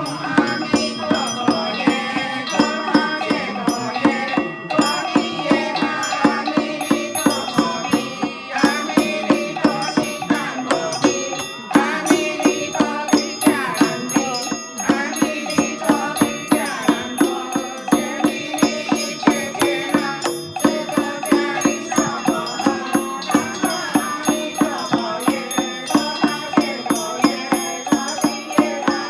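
Scripture chanting in a sing-song voice, kept to a steady percussion beat of about two strikes a second.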